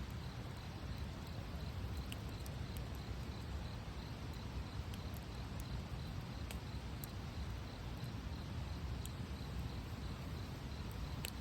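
Wood fire burning: a steady low rush with scattered sharp crackles and pops from the burning wood, the loudest pop near the end.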